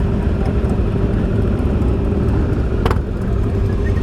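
Motorcycle engine running steadily with wind rumble, as heard from a riding motorcycle. A single short click comes about three seconds in.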